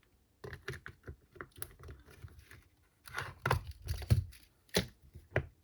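Hands handling and fitting the plastic parts of a cordless screwdriver being reassembled: a run of irregular clicks, knocks and scrapes, busier and louder in the second half.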